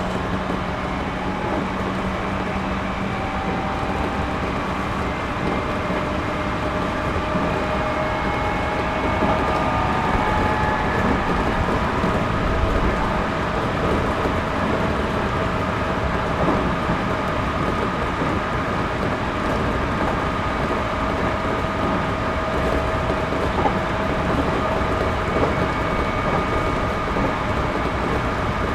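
Interior running sound of a JR Series 211-5000 electric multiple unit travelling at speed: a steady rumble of wheels on rail, with a steady whine held underneath.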